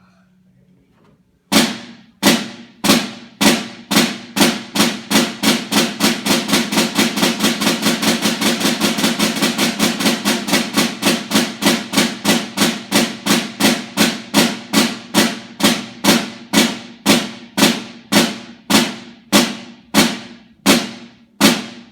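Snare drum playing the flam rudiment open-closed-open: widely spaced strokes starting about a second and a half in, speeding up to a fast, dense run in the middle, then slowing back to widely spaced strokes that stop just before the end.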